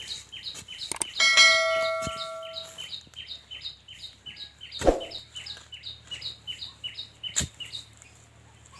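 Iron crowbar striking while digging for a tuber: about a second in one blow rings out with a clear metallic tone for over a second, and a few duller knocks follow later. A high chirp repeats about three times a second throughout.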